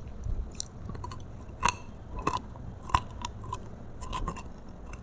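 Close-up chewing of roasted food, with irregular sharp crunches and clicks.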